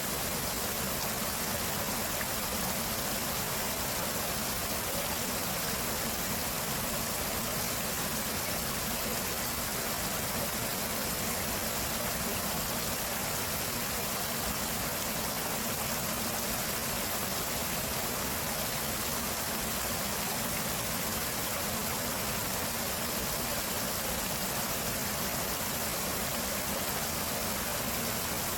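Flowing water of a stream rushing steadily, an even hiss with no pauses or changes.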